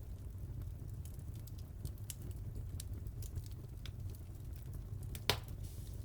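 Wood fire burning in a fireplace: a low steady rumble of the flames with scattered small crackles and one louder pop about five seconds in.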